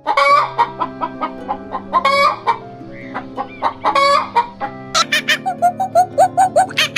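Chickens clucking and calling over background music with held notes; from about five seconds in, a quick run of short calls, several a second.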